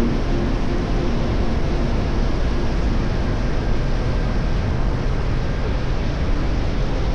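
Steady wind rush and road noise from a moving electric motorcycle, with no engine note.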